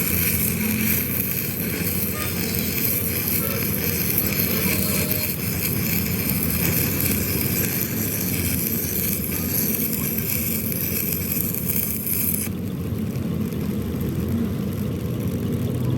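Steady running noise of heavy workshop machinery, with a high hiss over it that cuts off suddenly about twelve and a half seconds in.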